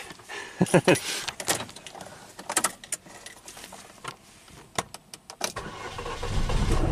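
A few clicks and knocks of the key and interior handling, then about five and a half seconds in the 2010 Chevy Cobalt's 2.2 L four-cylinder engine fires up and runs as a low rumble that swells near the end. The engine has been starting and then stalling, after a powertrain relay with legs not fully seated was pushed home following a harness fire.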